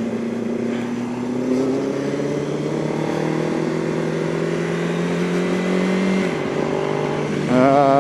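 Yamaha R1 inline-four motorcycle engine running under way, its pitch climbing steadily for several seconds as the bike accelerates, then dropping about six seconds in.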